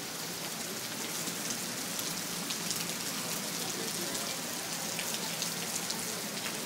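Rain falling onto a flooded street: a steady hiss scattered with many small, sharp drop ticks.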